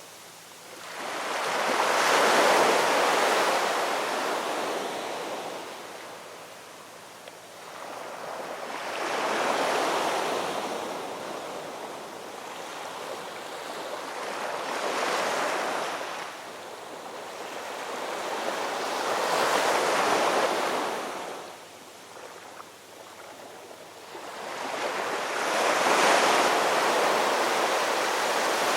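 Ocean surf: waves breaking on a shore about five times, roughly every six seconds, each rushing in loudly and then fading away.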